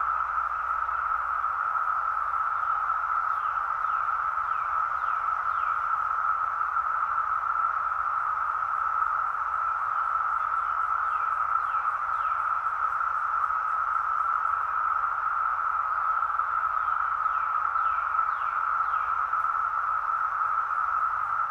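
A dense chorus of Brood X periodical cicadas: a steady, unbroken droning buzz. Faint short falling chirps come through in small runs a few times.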